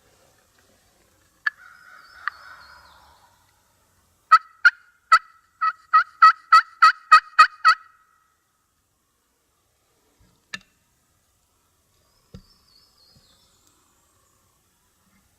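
Turkey yelping: a run of about a dozen sharp, evenly spaced yelps, coming a little faster toward the end. It is preceded by a softer raspy call with two clicks, and followed a few seconds later by a single click and a low thump.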